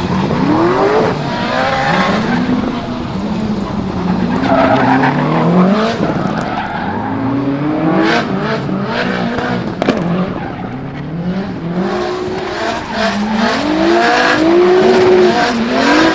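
Turbocharged 2.2 L stroker Subaru EJ20 flat-four in a drifting Impreza GC8, revved up and down again and again, over tyre squeal from the sliding car. Short sharp cracks come through in the middle and near the end.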